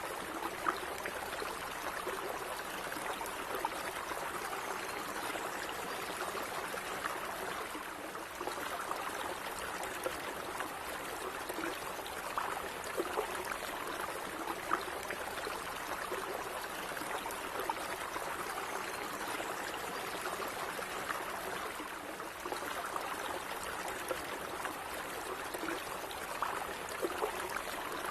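A small stream of water running steadily, with light splashing and trickling.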